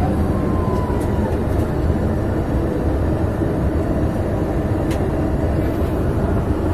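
Steady cabin noise inside a Boeing 737-800: a low, even rumble of its CFM56 engines and rushing air.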